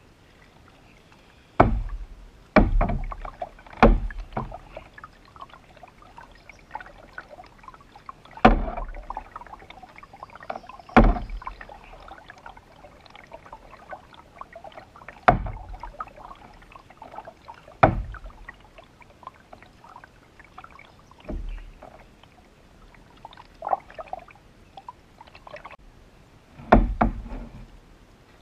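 A paddle knocking hollowly against a canoe's hull, about ten sharp thumps at irregular intervals a few seconds apart.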